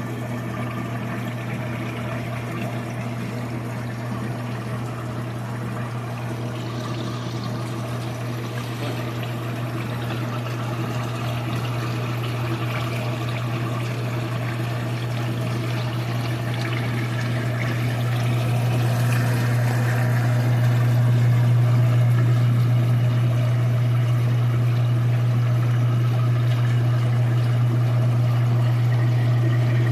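Sears-Kenmore 110 Series washing machine pumping out its water while in spin: a steady motor and pump hum under the rush of draining water, growing louder about two-thirds of the way through. The machine is draining during the spin cycle instead of in neutral, because the neutral drain kit slipped.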